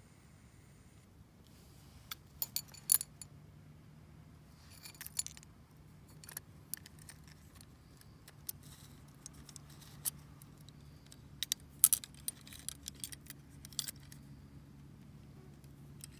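Small metal items jingling and clinking in scattered short bursts, loudest about three seconds in and again near twelve seconds, over a faint low steady hum.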